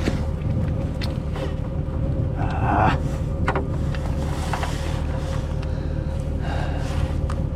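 An engine running steadily at idle, with a few short knocks and clatters over it.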